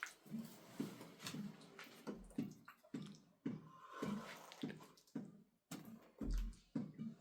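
Wet mud plaster being worked by hand: soft wet squelches and drips, about two a second.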